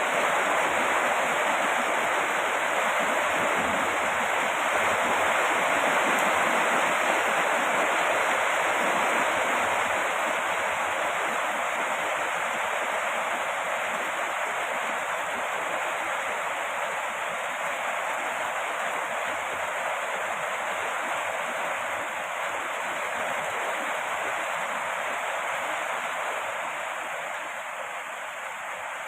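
Steady rain falling, a dense even hiss with no separate drops or thunder, easing slightly in level near the end.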